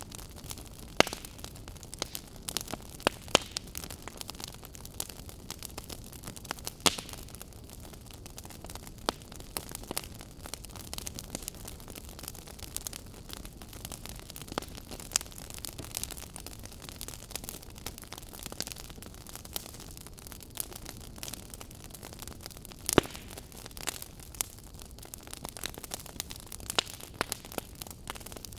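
Wood fire crackling: irregular sharp snaps and pops from burning logs over a soft steady hiss, with a few louder pops about 1, 3, 7 and 23 seconds in.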